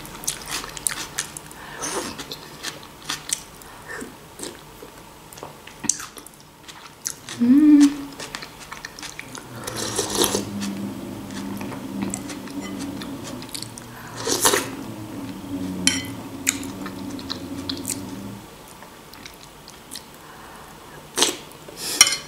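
Close-miked eating: chewing mouthfuls of borscht, with scattered short clicks of a metal spoon against a glass bowl. There is a short sliding 'mm'-like tone about seven seconds in, and a low steady hum from about ten seconds in to about eighteen.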